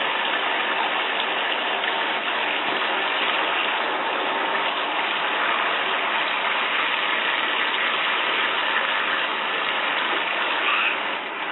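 Shower head spraying a steady stream of water into a bathtub.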